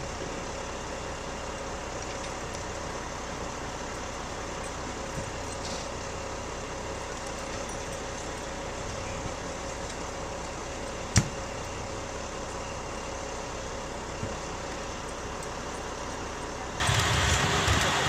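Steady running of an idling vehicle engine with a faint steady hum. There is one sharp knock about eleven seconds in, and a louder rushing noise starts suddenly near the end.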